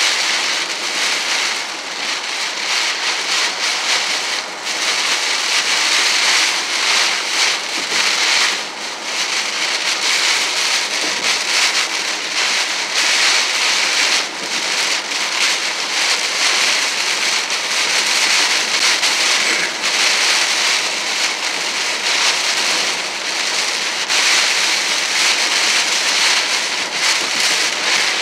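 Heavy rain hitting a car's windshield and roof, heard from inside the cabin, mixed with the hiss of tyres on the wet road: a loud, steady rush.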